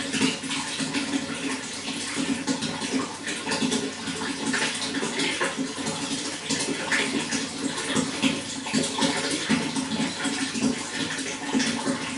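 Running water flowing and splashing steadily, a continuous rushing with many small irregular splashes.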